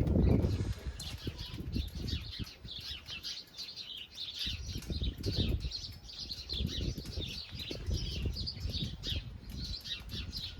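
Small birds chirping and twittering continuously, with irregular low rumbles underneath.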